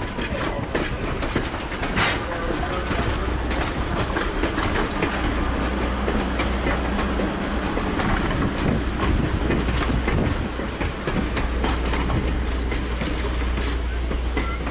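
A train rolling along the track: a steady low rumble with irregular sharp clicks from the wheels on the rails.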